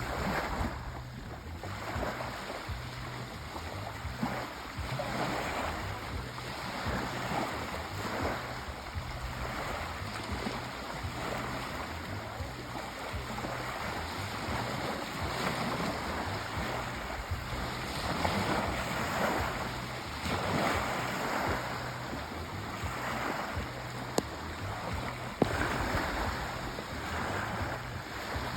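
Sea waves washing onto a shore in a steady, continuous surge that swells and eases every few seconds. Two brief sharp clicks about a second apart near the end.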